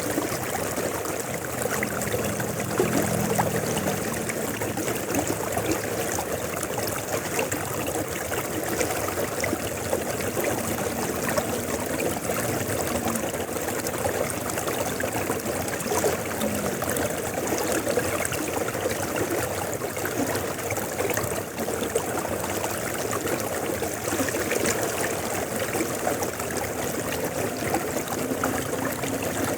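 Steady rush of a flowing river. A faint low hum comes and goes underneath, a couple of seconds in and again around the middle.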